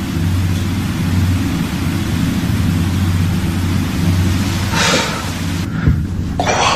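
Loud steady hiss over a low hum and rumble, with two brief scuffing bursts about five seconds and six and a half seconds in. In the empty train carriage they are heard as footsteps.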